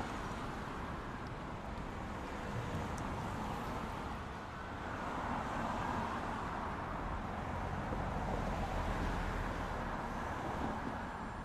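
Steady rumble and hiss of a vehicle driving, a little louder for a few seconds in the middle.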